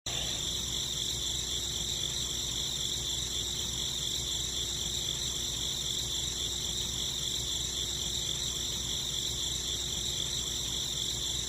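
Steady chorus of crickets, a dense high-pitched trill that cuts in abruptly after silence.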